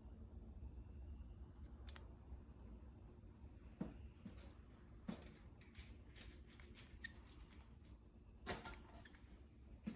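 Faint, scattered clicks and taps of small carburetor parts being handled and set down, over a low steady hum.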